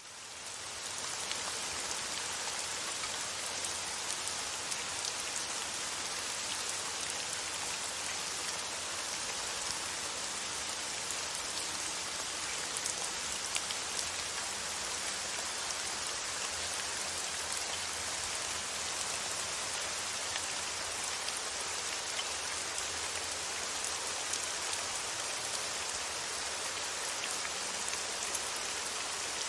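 Steady rain falling, an even hiss with fine scattered drop ticks, fading in over the first second and then holding level.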